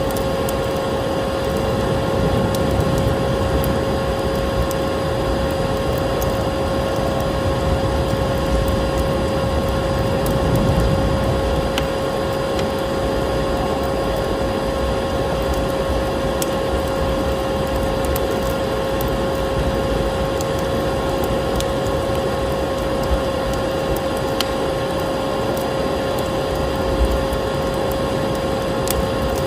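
Vacuum cleaner running steadily with a constant motor whine, over the crackle and scattered pops of a wood fire burning in a fireplace.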